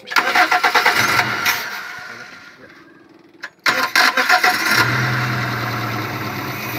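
1998 Daihatsu Espass 1.6's engine starting twice. It catches at once and runs, then fades and dies within about three seconds; a second start a little past halfway catches and settles into a steady run. This is the car's fault after about two years unused: it starts, runs briefly, then dies.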